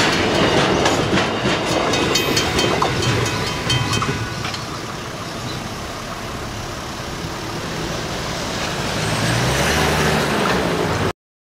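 Freight train wagons clattering over the level crossing as the end of the train passes, fading about four seconds in once the train has cleared. Near the end a car's engine rumbles louder as traffic starts across the crossing.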